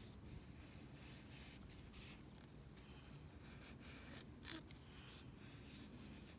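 Faint, repeated scraping strokes of a blade, several a second and unevenly spaced.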